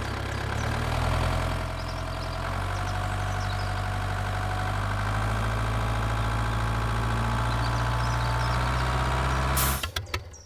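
A motor running steadily with a low hum and a faint whine that slowly rises in pitch, cutting off abruptly near the end.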